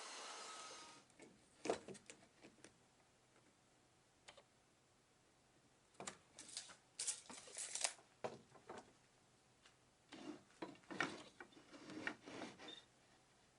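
A steady machine-like hiss cuts off about a second in, followed by three clusters of light clicks, taps and scraping, typical of small parts or tools being handled in a workshop.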